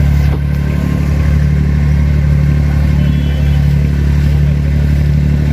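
Diesel engine of an abra water taxi running steadily under way, a constant low drone.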